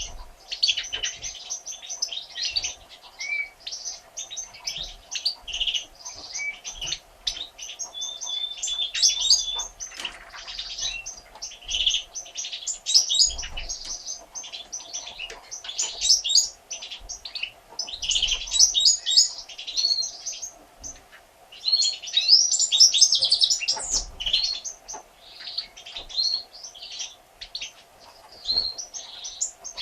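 European goldfinches chirping and twittering in rapid, high-pitched bursts that come again and again, with short gaps between them.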